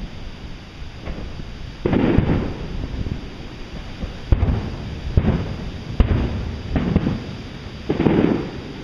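Aerial firework shells bursting: a series of booms about one a second or so, with sharp cracks between them. The two loudest, longest and most rumbling come about two seconds in and near the end.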